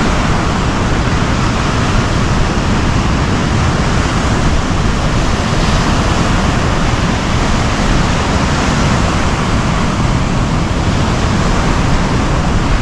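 Strong wind blowing across the microphone, with ocean surf beneath it: a loud, steady rush of noise, heaviest in the low end.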